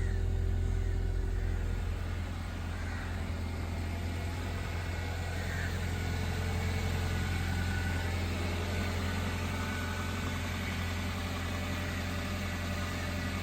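2002 Toyota Corolla Altis four-cylinder engine idling steadily just after a cold start, its low hum easing slightly about two seconds in.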